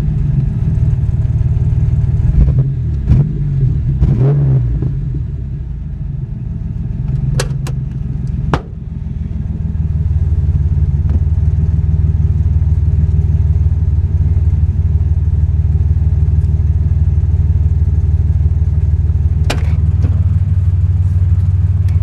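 The 1991 Ford Explorer's 4.0-litre V6 driving, a loud, steady engine and exhaust drone through a muffler with a hole in it, and the owner says one cylinder is missing. The drone dips for a few seconds and then holds steady, with a few sharp knocks and rattles from the stripped-down truck.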